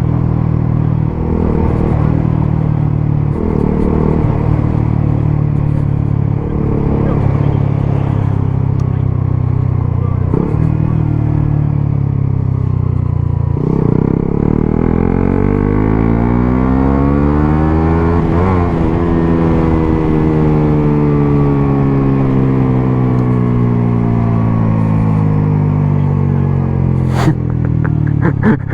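125cc single-cylinder motorcycle engines running at an even cruise. Their note holds steady for the first half, then from about halfway the pitches rise and fall slowly and cross each other. There is a sharp click near the end.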